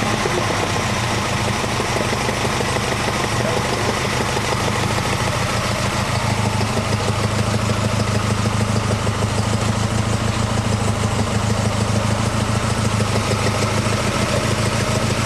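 Alfa Romeo Duetto Spider's twin-cam four-cylinder engine idling steadily on its twin Weber carburettors during tuning.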